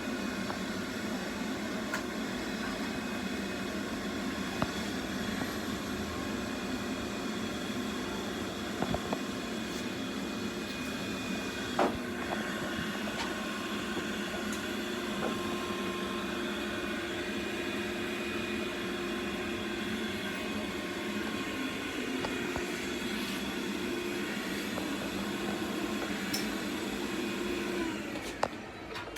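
A steady mechanical hum, like a fan or motor running, with a few short sharp clicks or knocks scattered through it; the hum drops away near the end.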